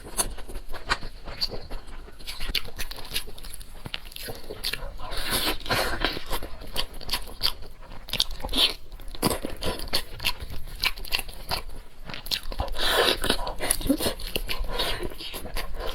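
A person biting and chewing crunchy food, with many quick sharp crunches.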